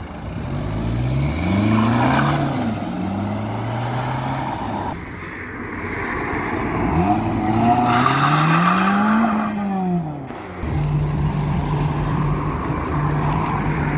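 Cars accelerating past one after another, their engines revving up through the gears and falling back; from about eleven seconds in, one engine holds a steady note.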